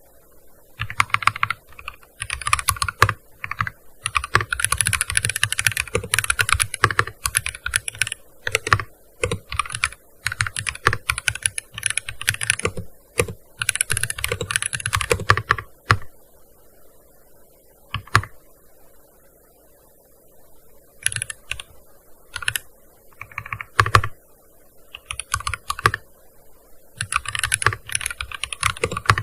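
Typing on a gaming keyboard: fast runs of key clicks in bursts, with pauses of a second or two between them, mostly quiet from about 16 to 21 s.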